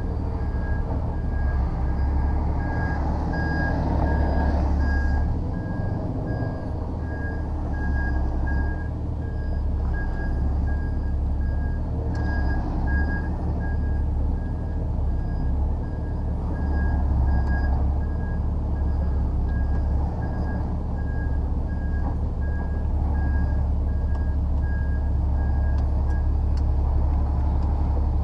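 Lorry reversing alarm beeping in a steady, even rhythm over the low rumble of the truck's diesel engine; the beeping stops near the end.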